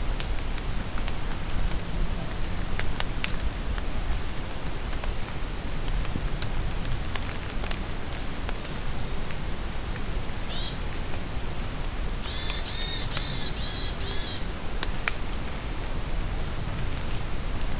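Steady rain falling in a forest, with scattered drops landing close by, and a songbird singing: a few faint high chirps, then a louder quick run of repeated high notes about twelve seconds in.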